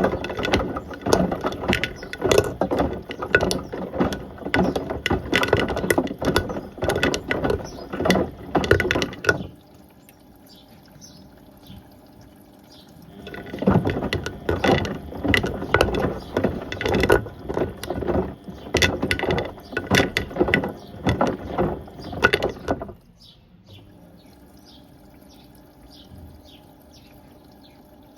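A toaster and kettle clattering and knocking around inside a Beko WM74135 washing machine's tumbling drum. There are two spells of about nine seconds each, with a pause of about four seconds between them, and the clatter stops near the end, leaving only faint dripping water.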